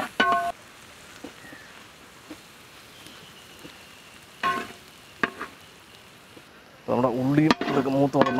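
Food frying in hot oil in a pan: a faint, steady sizzle with a few small clicks. A short pitched sound comes at the start and another about halfway, and a loud, wavering pitched sound takes over near the end.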